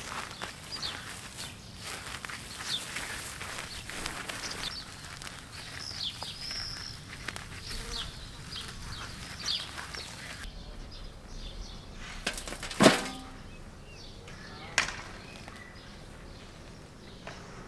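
Outdoor ambience with scattered short, high, falling chirps, then a single loud sharp knock about two-thirds of the way through and a few lighter clicks.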